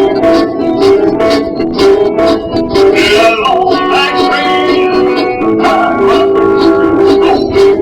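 Live band music: guitar playing over a steady beat.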